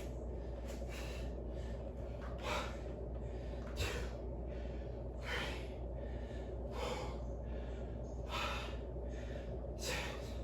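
A man breathing hard and in a steady rhythm while exercising, a sharp breath about every second and a half, over a steady low hum.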